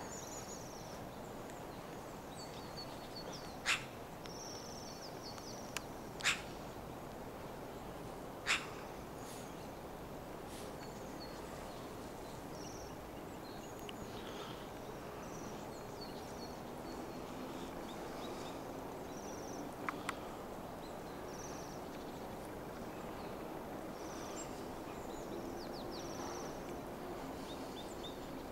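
Small birds chirping faintly and on and off over a steady background hum of city noise. A few sharp, louder single calls or clicks stand out in the first third.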